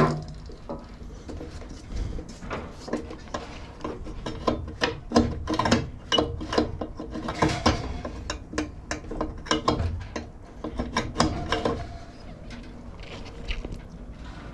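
Irregular mechanical clicking, ratcheting and knocking of metal parts and tools being worked on a walk-behind mower, settling down near the end.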